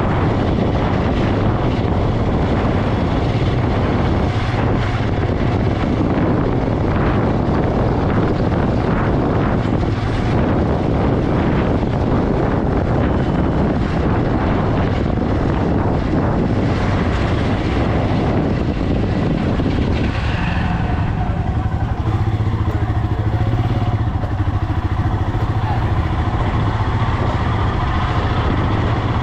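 Motorcycle running steadily while being ridden, its engine hum under heavy wind noise on the microphone. About two-thirds of the way through, the wind noise eases and the engine hum comes through more clearly.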